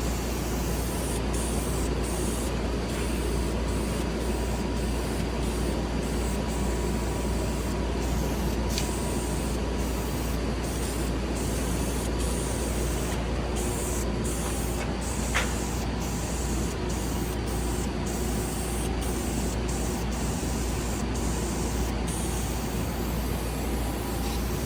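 Paint being sprayed onto a car wheel: a steady hiss whose highest part cuts out briefly again and again, over a constant low hum.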